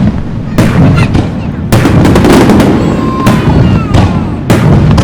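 Aerial fireworks shells bursting overhead: about five loud booms in quick succession, each with a rolling echo that overlaps the next.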